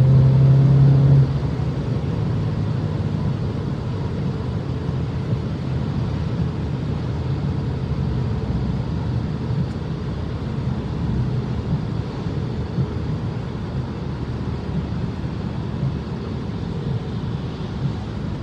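Car driven fast on a rain-soaked road, its engine and tyre-and-road noise heard from inside. At the start the engine note rises and holds under acceleration, then drops away about a second in, leaving a steady rush of road noise.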